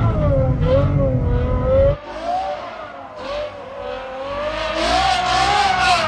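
Ferrari F12's V12 engine running hard while driving in snow, its pitch wavering up and down with the throttle. The low rumble drops away suddenly about two seconds in, and a hiss builds over the last couple of seconds.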